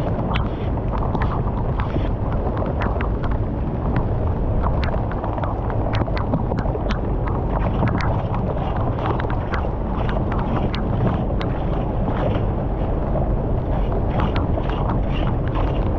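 Water rushing steadily through a cleared culvert, with many small splashes and ticks over a low rumble.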